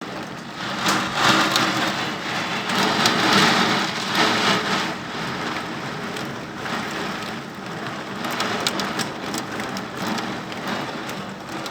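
Heavy downpour of rain pouring onto pavement, swelling louder in waves during the first few seconds and then easing to a steady rush, with scattered sharp drip ticks.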